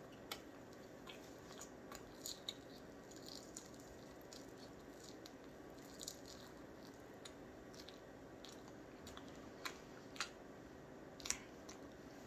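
Quiet chewing of a mouthful of marshmallow: a few soft, scattered wet mouth clicks over a faint steady hum.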